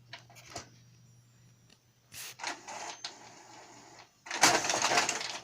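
Epson L120 inkjet printer's mechanism working: a few clicks, short motor runs about two seconds in, then a louder, longer run from about four seconds in.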